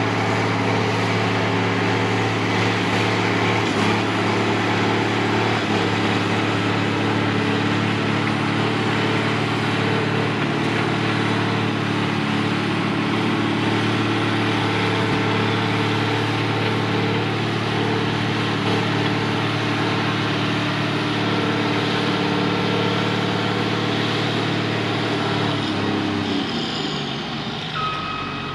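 Heavy earthmoving machine's diesel engine running at steady revs. Near the end the revs drop and a reversing alarm starts beeping.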